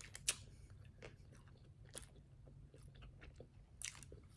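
A person chewing a crunchy sushi roll, faint, with scattered crisp crunches; the sharpest comes about a third of a second in and another just before the end.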